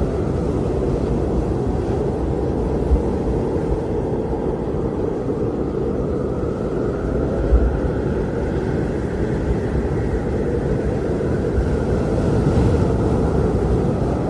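Blizzard wind blowing steadily with a heavy low rush, and a fainter whistling tone above it that slowly wavers in pitch.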